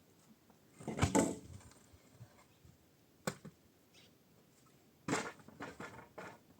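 Wooden knocks and clatter: a cluster about a second in, a single sharp knock a little after three seconds, and a quick run of knocks near the end.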